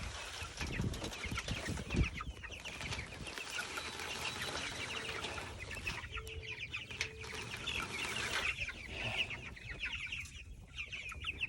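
A flock of young meat chickens cheeping and clucking continuously in rapid high chirps, with a few low thumps in the first couple of seconds.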